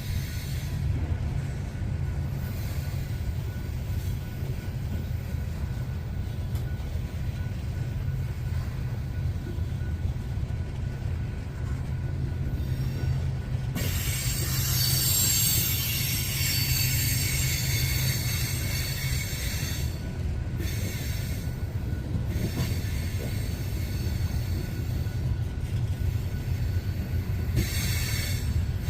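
Loaded coal hopper cars rolling past: a steady low rumble of wheels on rail, with high-pitched wheel squeal coming in about halfway through and again near the end.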